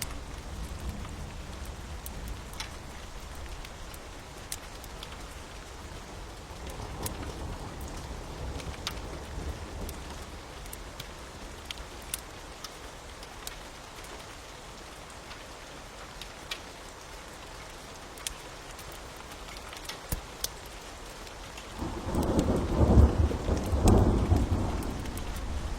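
Steady rain with scattered sharp crackles of a fire, and a low roll of thunder swelling near the end.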